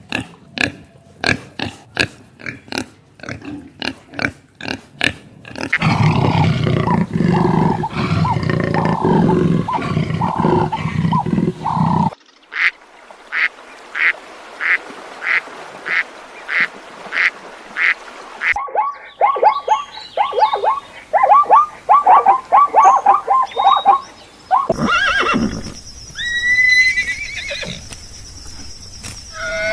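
A run of different animal calls, one short clip after another: first rapid clicking calls, then a loud low grunting mass, then evenly spaced calls about twice a second, then a fast chatter, then another animal near the end.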